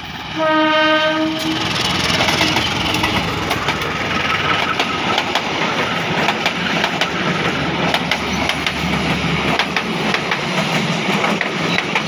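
Diesel locomotive horn sounding one blast of about a second, followed by a passenger train running past close by: the locomotive engine and the coaches' wheels clattering steadily over the rail joints.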